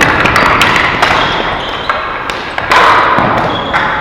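Ball hockey play: a run of sharp knocks and clacks from sticks, ball and boards, over a hubbub of shouting that swells twice.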